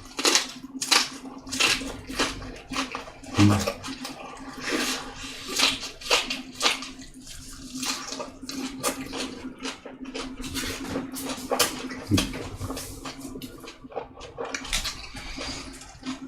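Close-miked eating: wet chewing and mouth smacks of someone eating bossam, many irregular clicks and squelches over a steady low hum.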